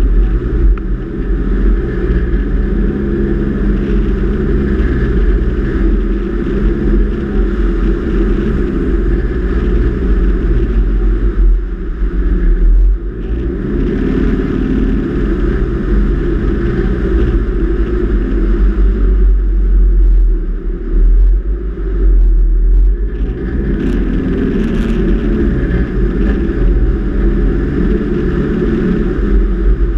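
Four-wheel-drive vehicle's engine running under load while driving on soft beach sand, its note shifting as it goes and easing off briefly twice, near the middle and about two-thirds of the way through.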